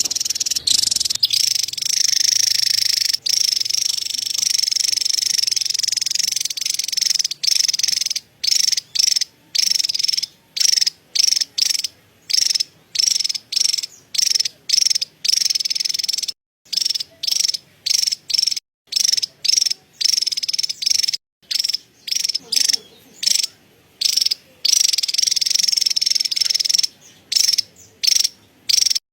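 Javan tesia giving its high, buzzy chattering call. The chatter is unbroken for the first several seconds, then comes as a quick run of short bursts with brief gaps between them.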